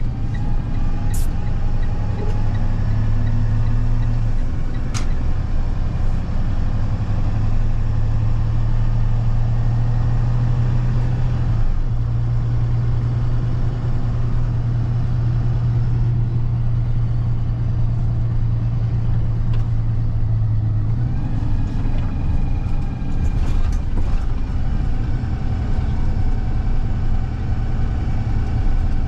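Box truck's diesel engine and road noise heard from inside the cab while driving, a steady low drone. About two-thirds of the way through, the engine note drops away and changes.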